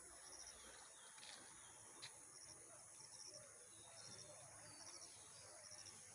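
Faint insect chirping: short pulsed chirps, about one a second, each a quick run of several pulses, over a steady high hiss.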